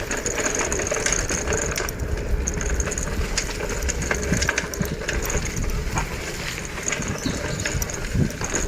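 Bicycle ride noise: a steady low rumble of wind and tyres, with many quick mechanical clicks over it.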